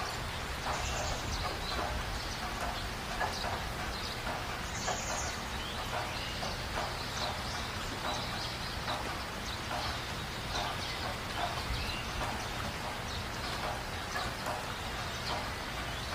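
Many short bird calls scattered over a steady background hum and hiss.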